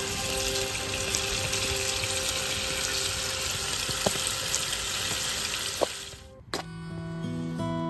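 Food sizzling in a hot frying pan, a dense steady hiss with small pops, which fades out about six seconds in. Strummed acoustic guitar music then starts.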